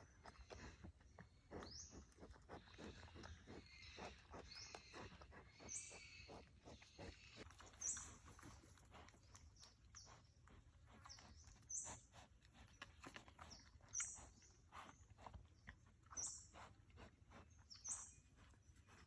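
Faint animal calls: short, high, rising cries about every two seconds, over light crackling and clicking.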